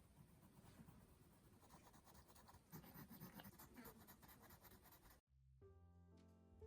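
Faint scratching of a pencil writing and sketching on paper. About five seconds in it cuts off abruptly and soft instrumental music begins.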